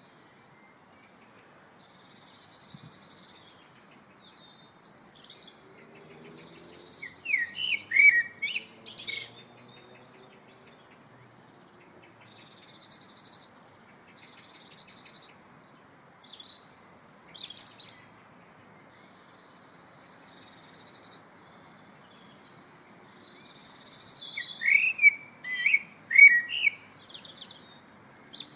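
Birds singing: short, high, buzzy phrases repeat every couple of seconds, with louder whistled song phrases about seven seconds in and again near the end.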